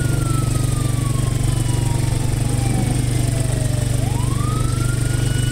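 A steady low engine drone, with a siren-like wailing tone over it that slides slowly down in pitch for about four seconds, then swoops back up and holds.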